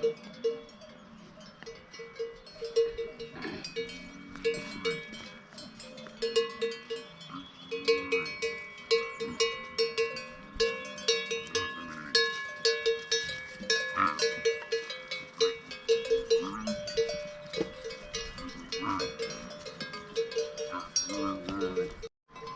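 Bells on a flock of livestock clanking and tinkling irregularly as the animals move, with one bell clanking steadily about two to three times a second.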